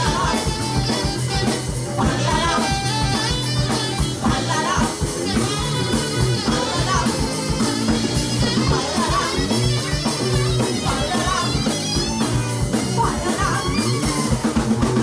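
Live rock band playing, with drum kit keeping a steady beat under electric guitar.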